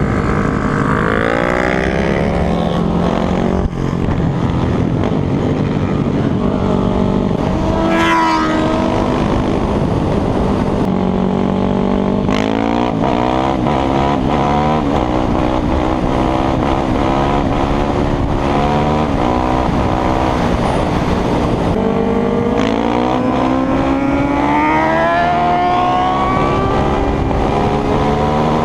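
Sport motorcycle engines running hard and accelerating, their pitch climbing again and again: a rise near the start, a sharp quick rev about eight seconds in, more rises around twelve seconds and a long climb in the last third.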